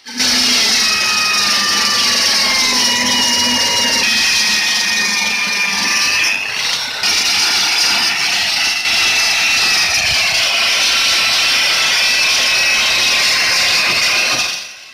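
A power tool running steadily, a loud hiss with whining tones that drift slowly down and up in pitch, starting and cutting off abruptly.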